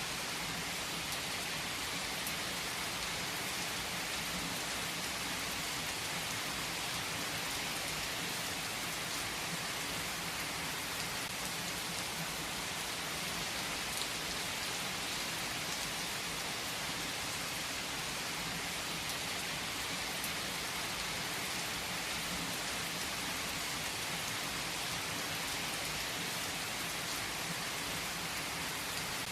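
Steady rain, an even hiss of falling drops with faint individual drop ticks and no change in level.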